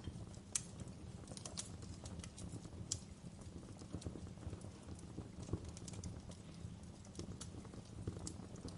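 Wood fire crackling in a fireplace: irregular sharp pops and snaps over a steady low rumble of the flames, with a couple of louder pops about half a second and three seconds in.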